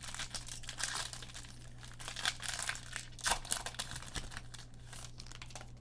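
Crinkling and rustling of a foil trading-card pack wrapper and the cards inside being handled, in irregular short crackles.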